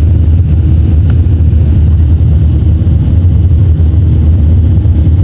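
Steady low rumble inside the cabin of a Boeing 737-500 airliner, the noise of its engines and airflow.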